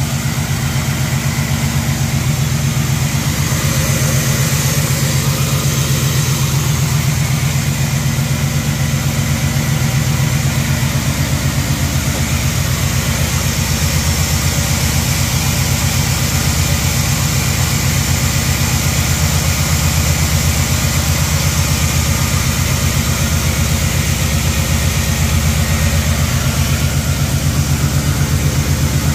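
1979 Chevrolet Caprice's engine idling steadily as it warms up, with an even, rapid pulse.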